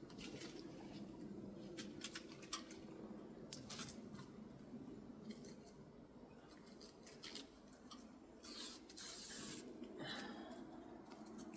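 Faint scattered crackling and rustling of thin protective plastic film being peeled and handled off a new uPVC window, with a brief louder rustle near the end.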